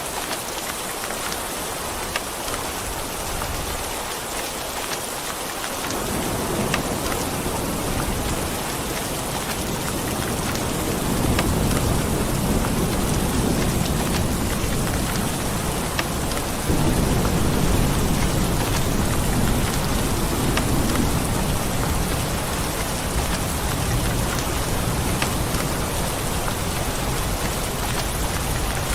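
Steady rain falling, with a long low rumble of thunder that builds about six seconds in, is loudest through the middle and dies away in the last third.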